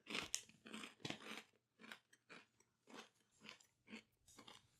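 A person chewing a crunchy rusk close to the microphone. It opens with a cluster of loud crunches as the rusk is bitten and broken up, then settles into even crunchy chewing about twice a second.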